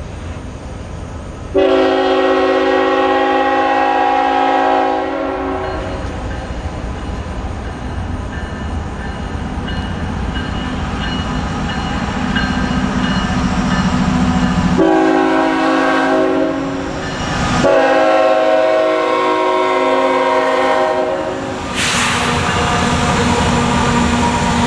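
Diesel freight locomotive's air horn sounding three chords: a long blast, then a shorter one and another long one, over the rising rumble of the approaching train. Near the end the rush of the train passing takes over.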